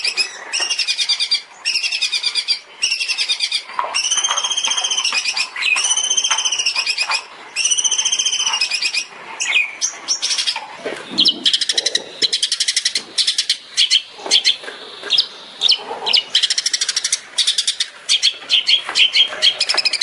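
Long-tailed shrike (cendet) singing. For the first nine seconds or so it repeats arching whistled notes about a second apart, then it breaks into a fast run of quick, high chattering notes.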